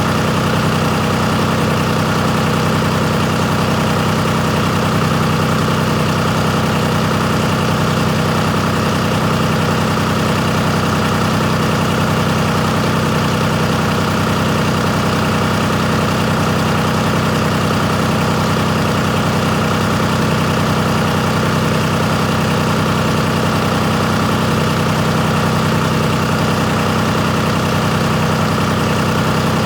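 John Deere 4219DF four-cylinder diesel engine idling steadily, with no change in speed.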